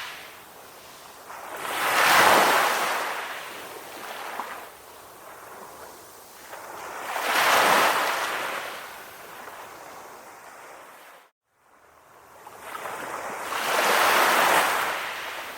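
Calm sea waves washing onto a shore, each surge swelling up and fading away, three times about five to six seconds apart. The sound cuts out completely for a split second a little past the middle.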